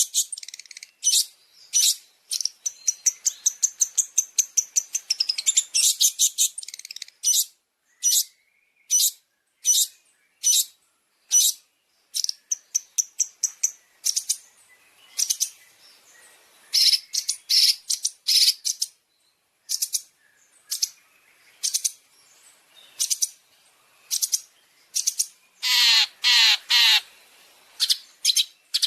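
Recorded long-tailed shrike (cendet) song: a long run of short, sharp high-pitched calls and rapid chattering phrases, some fast enough to run together. A louder, harsher buzzy call comes about 26 seconds in.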